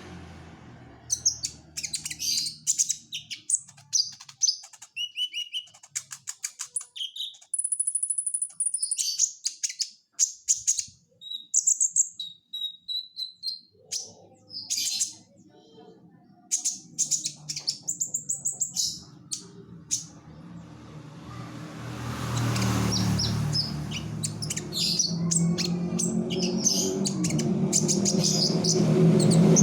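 Songbird singing a fast, varied song of short high chirps and trills, with a held high note about eight seconds in. Over the last several seconds a low background hum builds up and grows louder.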